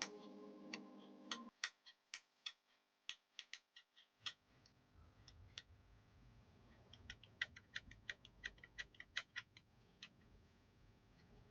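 Faint, irregular small clicks and ticks, as of a 2-in-1 lock pick being worked in a lever safe lock, thickest in the second half. Music fades out in the first second and a half.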